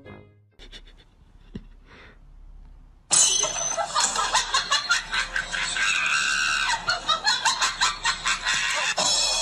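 A few faint seconds, then a person laughing hard in rapid bursts starting suddenly about three seconds in, with a high squealing stretch around the middle.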